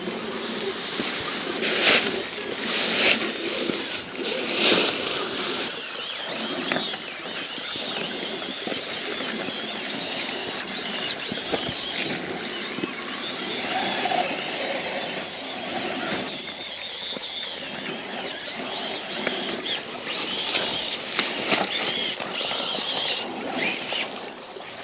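Small electric motors and geared drivetrains of RC rock-crawler trucks whining as they crawl, the pitch wavering up and down with the throttle, with a few sharp knocks in the first few seconds.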